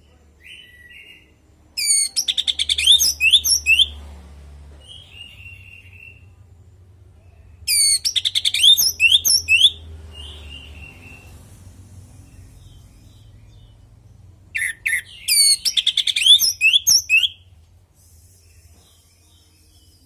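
Orange-headed thrush singing: three loud phrases of rapid, varied whistled notes, each about two seconds long and about six seconds apart, with a few soft short notes in the gaps.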